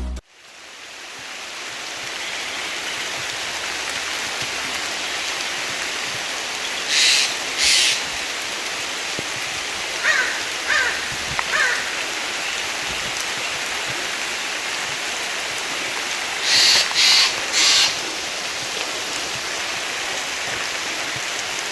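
Steady rain falling in a forest, a constant hiss. Harsh bird calls break in twice about seven seconds in and three times near the end, with a few short chirps in between.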